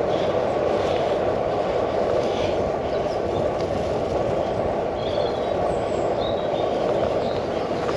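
Bicycle riding along a track, its tyres rumbling and the frame rattling steadily, heard through a camera mounted on the handlebars.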